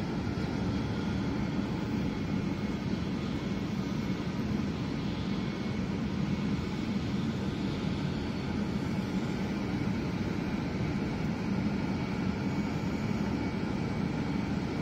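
Steady low rumble and rush of a Shinkansen bullet train running at speed, heard from inside the passenger car.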